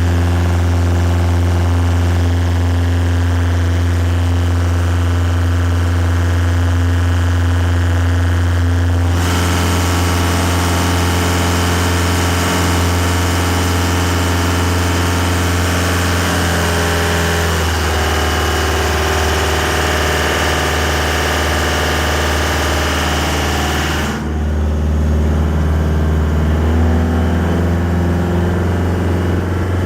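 Yamaha DY29B boat's engine running with a steady low drone. About nine seconds in, a rushing hiss joins it. The engine note shifts a little past halfway, and the hiss drops away about 24 seconds in.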